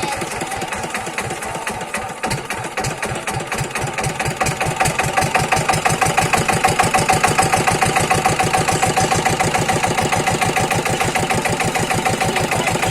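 Diesel engine driving a water pump, running steadily with an even, rapid firing beat; it dips slightly about two seconds in and then picks up again.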